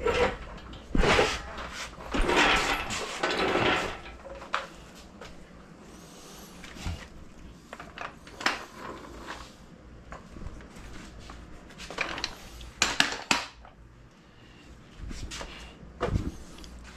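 Irregular metal clanks, knocks and scrapes of an engine on a shop hoist being handled and moved, loudest in a few clusters with quieter gaps between.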